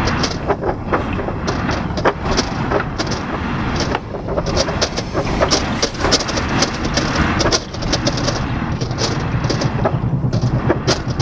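Strong blizzard wind gusting with a continuous low rumble, broken by many sharp ticks and knocks.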